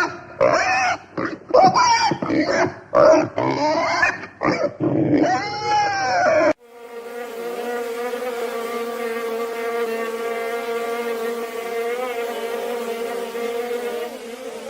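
Loud, choppy animal grunts and squeals with sliding pitch. About six seconds in they cut off abruptly, giving way to a steady, unbroken buzz like a flying insect's.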